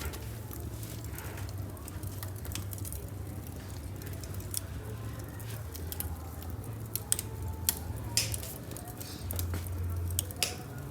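Small wood fire crackling, with sharp irregular pops over a low steady rumble.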